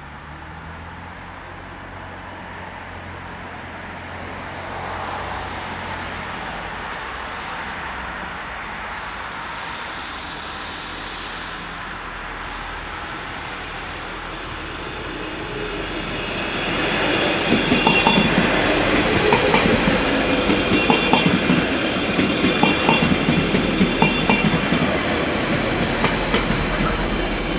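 Stadler GTW diesel multiple unit approaching and passing close by, its engine sound building gradually. About 17 s in it gets much louder, with wheels clattering over the rail joints and a high, steady wheel squeal on top.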